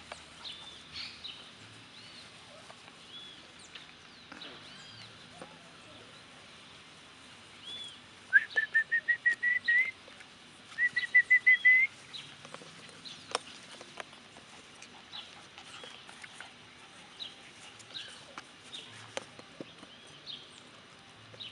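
A bird singing: two loud runs of quick repeated whistled notes, each run rising slightly in pitch, about eight seconds in, with a short gap between them, among faint high chirps scattered throughout.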